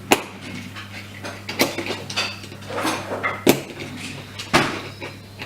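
Plastic parts of a Road Rippers Snap and Play toy car being handled and snapped together: several sharp plastic clicks among light rustling.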